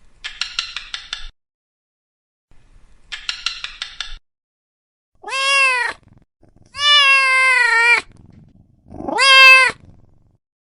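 Domestic cat vocalising: two short raspy cries, then three clear meows, the middle one the longest.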